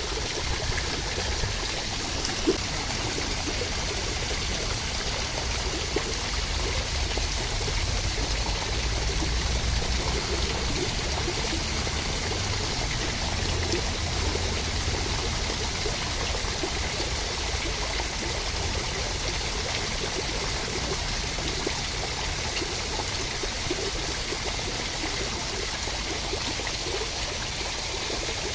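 Steady rain: a continuous hiss of falling water with many small drips and patters.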